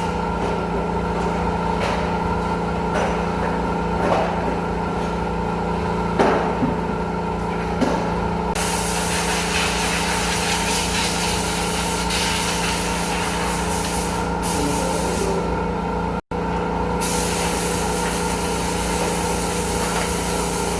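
A machine running with a steady hum and some faint knocks. From about eight seconds in, a loud rushing hiss like air or spray joins it; the hiss drops away briefly twice.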